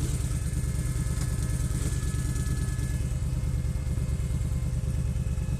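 KTM RC 125's single-cylinder motorcycle engine running steadily at an even, low pitch, with no revving.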